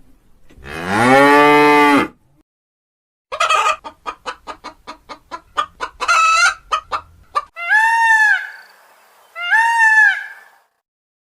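A cow moos once, a long low call. A chicken follows with a quick run of about a dozen short clucks. Near the end come two separate, longer, arching calls.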